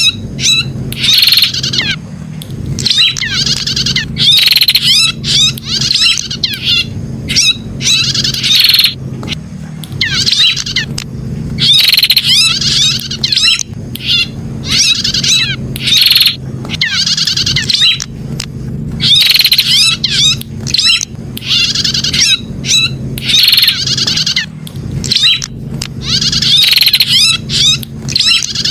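Prinia (prenjak) song: bursts of rapid, high twittering notes repeating every second or two without a break, over a steady low hum. It is a recording played as a lure call to draw in wild prenjak.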